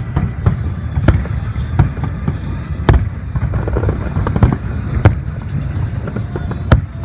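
Fireworks shells bursting in quick, overlapping succession: a continuous low booming, broken by sharp cracking reports, the loudest about three seconds in, at five seconds and near the end.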